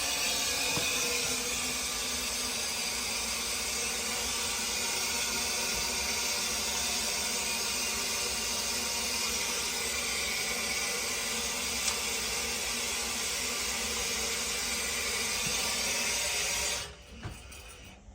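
Steady hiss of water running into an oil-fired boiler through its fill valve as the boiler is refilled, dropping away suddenly near the end.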